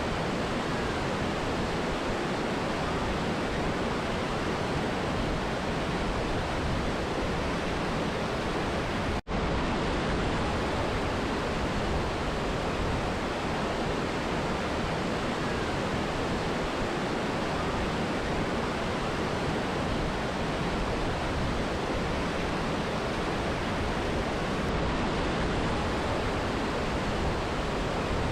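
Steady rushing water of a mountain river and waterfall, an even roar with no distinct splashes. About a third of the way in the sound drops out for a split second and comes straight back, like an edit splice.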